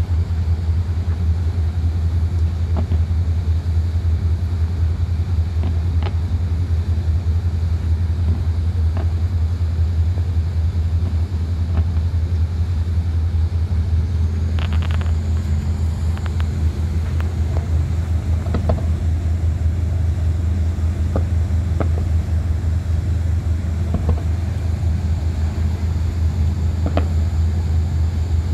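Steady low engine drone of a river cruise boat, even and unchanging, with a few faint sharp cracks scattered over it, a small cluster of them about halfway through.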